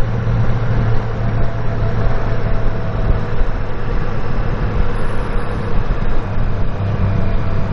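Honda Gold Wing F6B's 1.8-litre flat-six engine running steadily at riding speed, with a constant low hum under wind and road rush.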